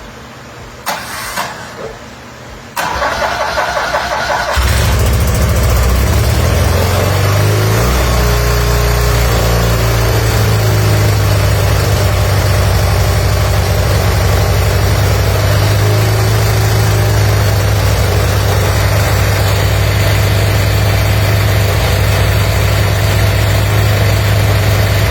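1978 BMW R80/7's air-cooled flat-twin engine, on choke, cranked on the starter for under two seconds, then catching and running steadily: its first start after a complete restoration.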